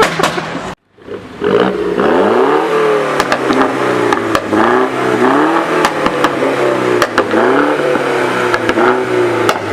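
A car engine revved over and over through a loud aftermarket exhaust, about once a second, starting after a brief gap about a second in; sharp cracks sound among the revs.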